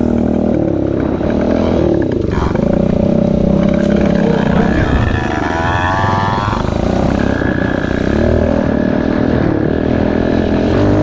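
Pit bike engine running under way, its note rising and falling with the throttle.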